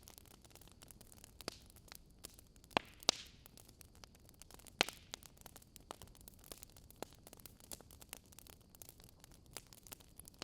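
Wood fire crackling: irregular sharp pops and snaps from burning logs, a few louder ones about three and five seconds in, over a faint hiss.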